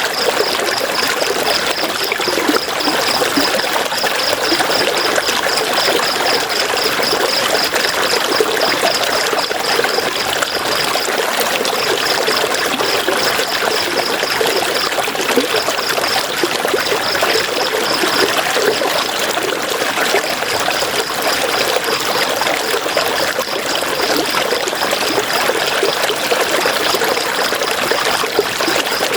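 River water flowing steadily. Over it runs a high, rapid pulsing chirp that stops briefly a few times.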